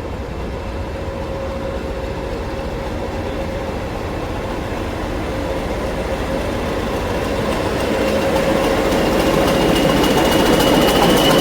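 Railway locomotive approaching, getting steadily louder, with a steady hum and a faint whine that rises slowly in pitch.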